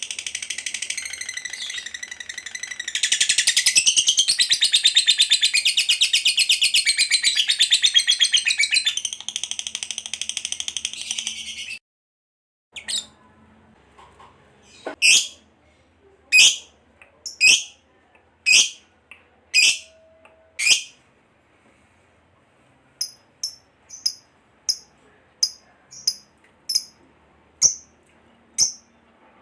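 Lovebird's long, rapid chattering trill (the 'ngekek panjang'), cut off suddenly about twelve seconds in. After a short gap come single sharp shrieks about one a second, then a run of shorter, higher chirps.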